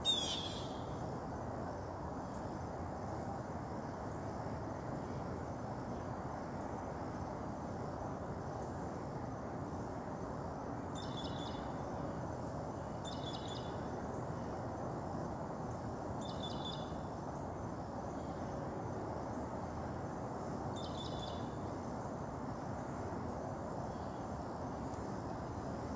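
Steady outdoor background noise with a bird calling: one falling high call at the start, then four short high calls a few seconds apart.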